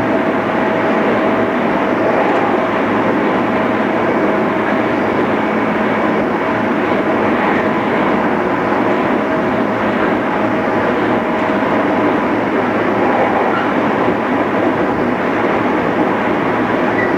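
Interior running sound of a JR East 211 series electric multiple unit: a steady rumble of wheels and running gear heard from inside the car. A faint steady whine fades out about twelve seconds in.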